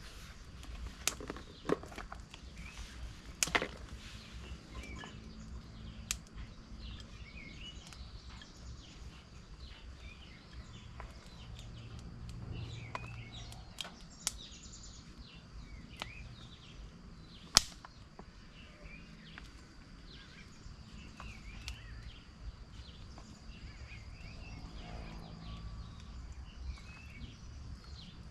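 Forest ambience: scattered short bird chirps over a steady, faint high insect drone. A few sharp knocks or clicks cut through, the loudest a little past the middle.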